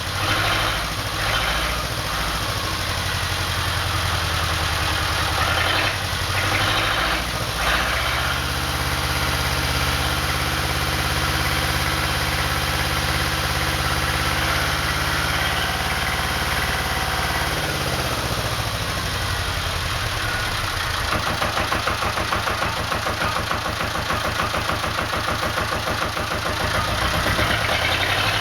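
Volvo MD7A two-cylinder marine diesel running steadily shortly after a cold start, sounding healthy; its note shifts about two-thirds of the way through.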